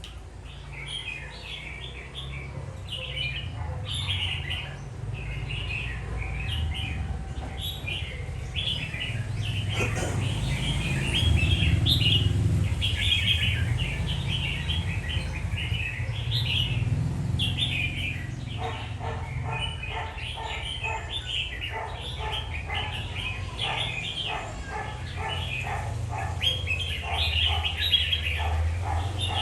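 Red-whiskered bulbul singing: a stream of short, quick chirpy phrases, turning about two-thirds in into a rapid run of evenly repeated notes, over a steady low rumble.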